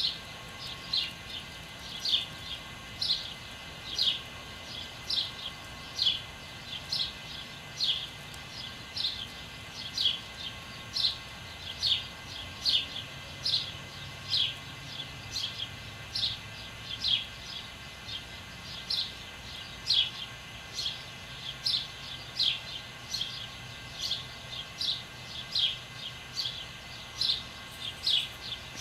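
A songbird repeating one short, down-slurred chirp over and over at a steady pace, about two notes a second.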